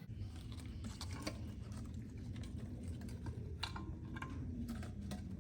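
Scattered light clicks and taps of metal on metal as the stuck cast-iron intake manifold of a Ford 289 V8 is worked loose from the engine block, over a low steady hum.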